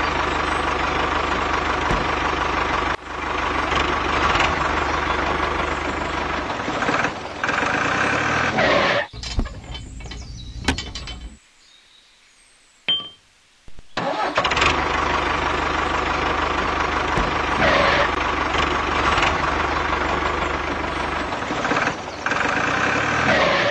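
Tractor engine running steadily. It cuts out for about two seconds midway, with one small click in the gap, then runs again.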